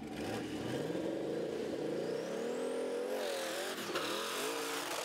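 Drag-racing tractor fitted with a car engine, revving hard as it accelerates. The engine note climbs in pitch, a rising whine comes in about two seconds in, and the sound becomes rougher and wavering at high revs near the end.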